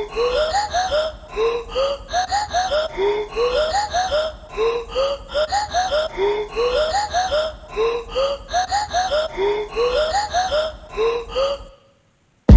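A looped, edited-in sample of short rising vocal-like notes, repeating the same phrase about every one and a half seconds over a low steady hum. It cuts off suddenly near the end.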